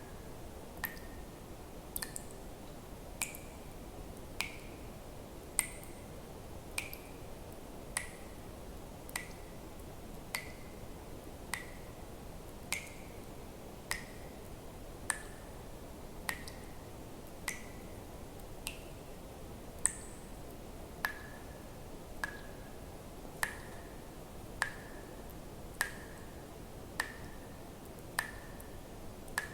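Water drops dripping at a steady, unhurried pace, about one every second or so. Each drop is a sharp plink with a short ringing note that shifts a little in pitch from drop to drop, over a faint steady hiss.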